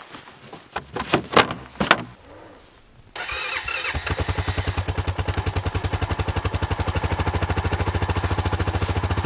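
ATV engine starting: a few short bursts, then it catches about three seconds in and settles into a steady, evenly pulsing idle.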